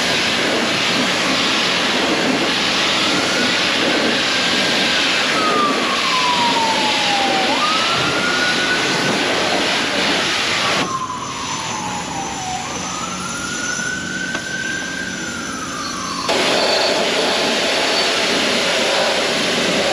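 A pressure-washer wand sprays water on a truck camper in a loud, steady hiss that stops for about five seconds in the middle. Behind it a wailing tone slowly rises and falls every few seconds.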